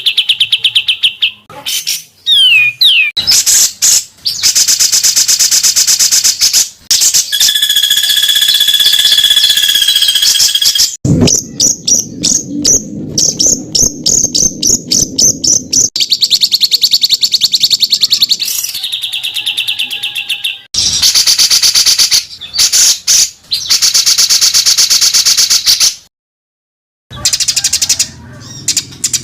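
Songbirds singing fast, harsh bursts of rapidly repeated high notes and trills, changing phrase every few seconds, with a silence of about a second near the end.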